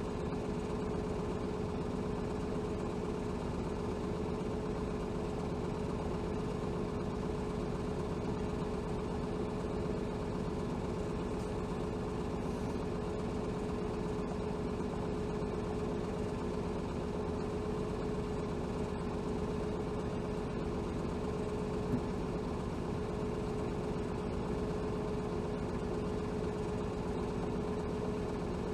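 Hino Rainbow HR city bus (BDG-HR7JPBE) engine running steadily at an unchanging pitch, with a constant hum, heard from inside the bus cabin.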